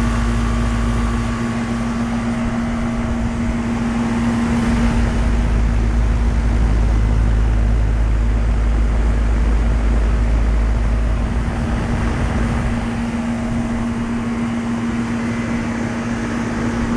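Older Heil central air conditioner condensing unit running: a steady compressor hum under the rush of its condenser fan, sounding healthy. A deeper low rumble swells for several seconds in the middle.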